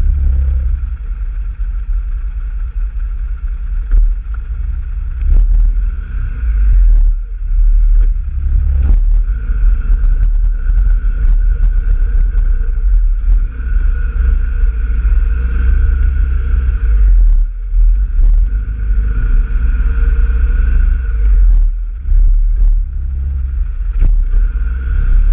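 Off-road vehicle engine running while riding a trail, its pitch swelling and easing with the throttle. A heavy low rumble of wind on the microphone runs under it, with scattered knocks from the rough ground.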